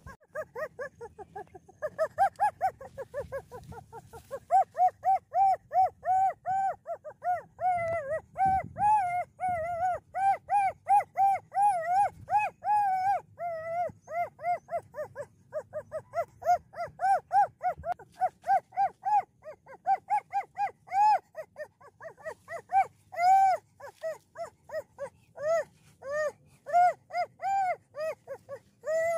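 A dog giving a long run of short, high-pitched yips, about two to three a second, without a break.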